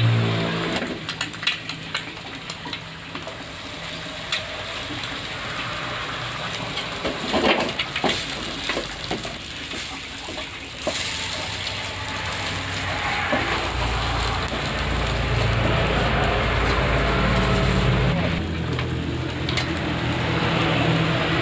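Food sizzling as it is stir-fried in an oiled wok, with the wooden spatula scraping and tapping against the pan. The sizzle grows louder about halfway through as more ingredients go into the pan.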